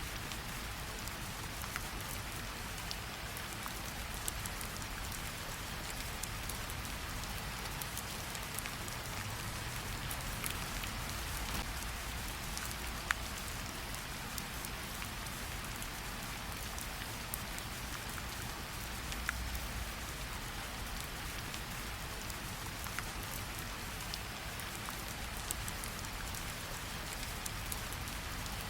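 Steady rain, an even hiss with many separate drops ticking against it.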